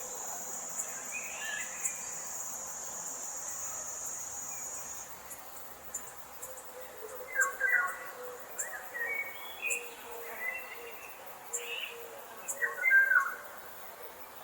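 Tropical forest ambience: a steady, high insect drone stops about a third of the way in, then birds give short calls, the loudest near the end.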